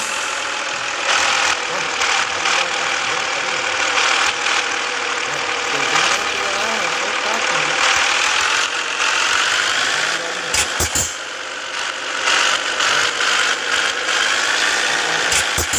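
Scania S 450 truck's diesel engine running steadily under road noise, its pitch drifting slightly up and down. A couple of short knocks or rattles come about two-thirds of the way in and again near the end.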